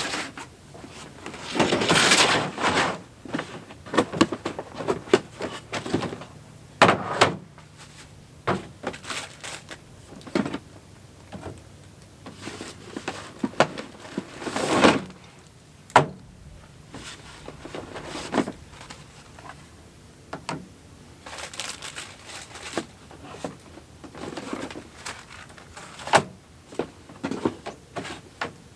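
Irregular handling noises: scattered clunks, knocks and short bursts of rustling, the loudest about two seconds in and about fifteen seconds in, as of gear being moved about and doors or lids opened and shut.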